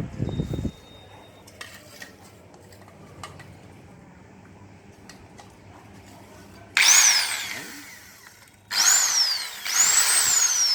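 Handheld electric cutter, freshly fitted with a new bearing, switched on in three short bursts on its test run: each time the motor whines up quickly to speed and then winds down with a falling pitch, the third run coasting longest. A few light clicks come before the first burst.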